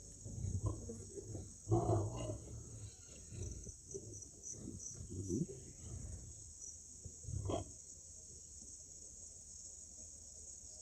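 Steady high-pitched chorus of crickets, with scattered short low grunts from pigs during the first several seconds.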